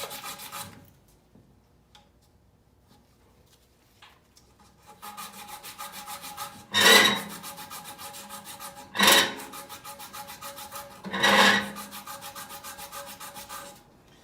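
Quick, evenly repeated metallic rasping from hand work on an air handler's blower assembly as it is taken apart. It comes in stretches, with a quiet gap in the first few seconds and three louder scrapes in the second half.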